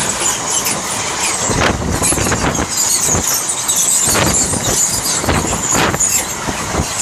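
A freight train hauled by Class 66 diesel locomotive 66127 passing at close range: a steady loud rumble and clatter of wheels on rail, with sharp knocks and a high-pitched wheel squeal.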